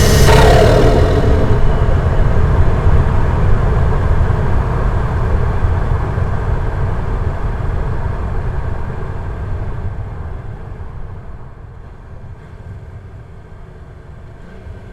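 A Toyota Supra passes close by with a falling pitch as it goes past, then its engine and exhaust fade steadily as it drives away into the distance.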